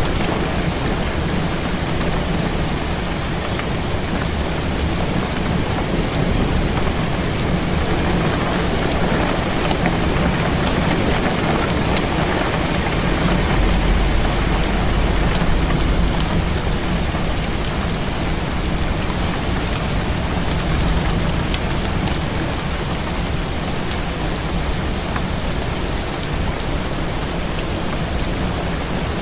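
Heavy rain falling steadily against a window, with a low rumble of distant thunder swelling about halfway through.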